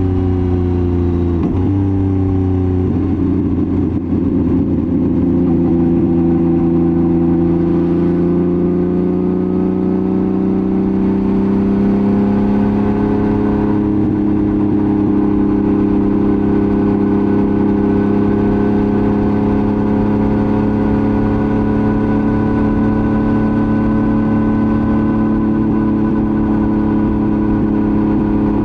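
Yamaha MT-09 three-cylinder engine through a titanium full exhaust, running under load while riding. It shifts up three times in quick succession in the first three seconds, then the pitch climbs slowly and holds steady at cruising revs.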